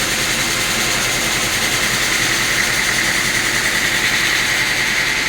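Sawmill machinery running steadily: a motor hum with a high whine that grows stronger about two seconds in.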